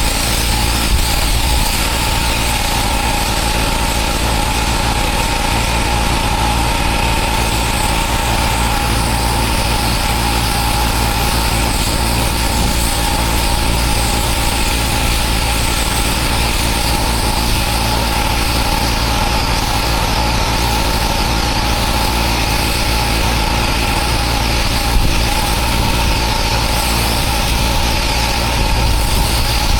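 Pressure washer's engine running steadily.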